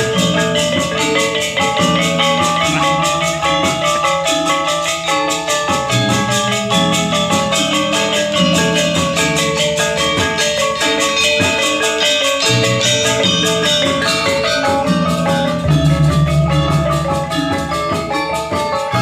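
Balinese gamelan ensemble playing: bronze metallophones strike a dense, fast stream of notes over lower ringing tones that change every second or two. A deeper, louder stroke swells in about three-quarters of the way through.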